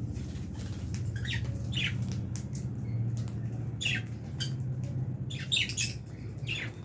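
A flock of lovebirds making short, sharp, high chirps and squawks in quick irregular bursts, over a steady low hum.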